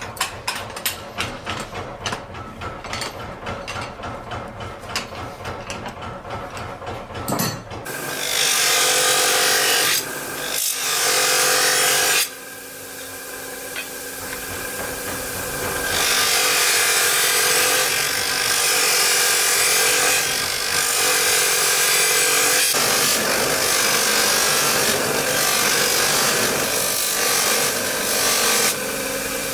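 A power grinder working a steel knife blade: a loud grinding rasp with a steady whine. It starts about eight seconds in and breaks off briefly twice. Before it comes a stretch of fast rhythmic knocking, about three to four a second.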